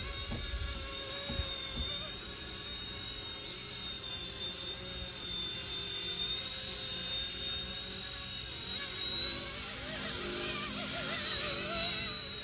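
RC-ERA C184 MD500 model helicopter in flight: the steady high whine of its electric motor and rotors, the pitch rising slightly about eight seconds in and settling back near the end. A few low thuds near the start.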